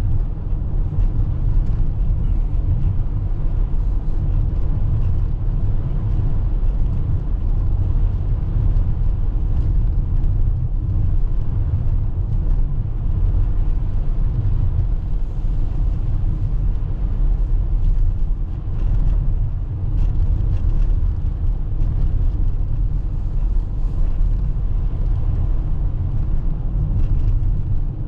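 Road noise heard from inside a Toyota RAV4 Hybrid driving on a snowy road: a steady low rumble from the tyres and drivetrain, with no distinct events.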